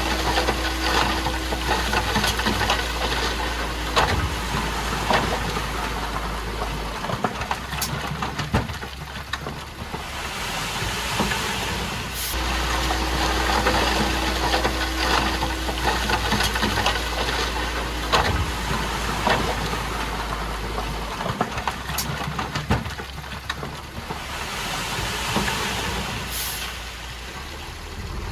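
Bulldozer's diesel engine running under work, easing off about a quarter of the way in, picking up again, then easing off once more later on, with scattered short metallic clanks.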